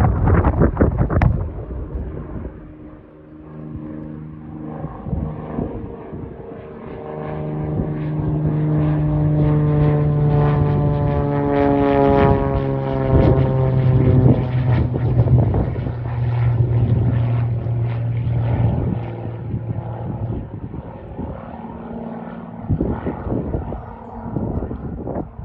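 Cirrus SR22T's turbocharged six-cylinder engine and propeller at takeoff power, a drone that swells as the plane approaches, drops in pitch about halfway through as it passes, then fades. The first second or so holds a rough, noisy rumble.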